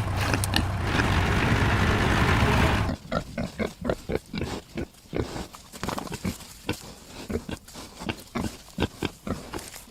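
Pig grunting and snuffling. A loud, dense noisy stretch cuts off suddenly about three seconds in, followed by many short grunts in quick, irregular succession.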